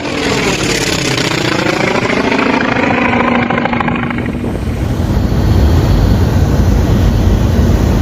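Soviet I-16 fighter's radial piston engine running, its pitch dipping and then rising over the first four seconds. After that it gives way to a heavy, low, wind-like rumble.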